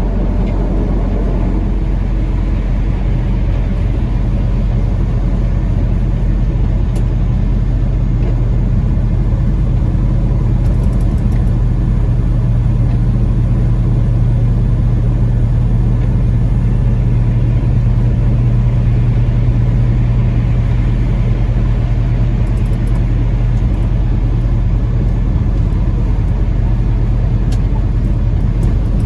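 Peterbilt 579 semi truck heard from inside the cab while cruising under heavy load: a steady low engine drone with road noise, the engine cooling fan engaged because packed snow is blocking the front.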